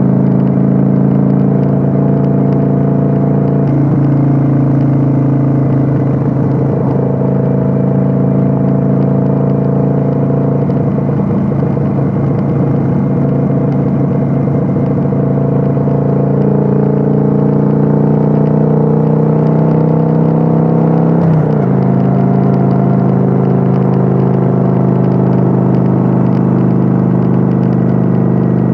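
Kawasaki Vulcan 900's V-twin engine running under way, heard from on board the motorcycle. The engine note climbs slowly and then drops abruptly about two-thirds of the way through.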